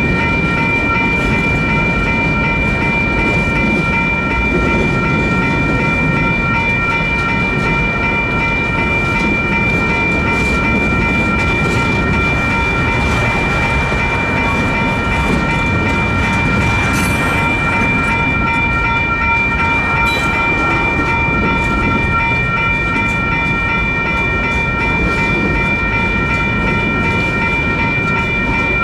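Freight train rolling through a grade crossing, a steady rumble with wheels clicking over the rail joints. Over it the crossing's WCH electronic bells ring continuously, a fast, even, high-pitched ding.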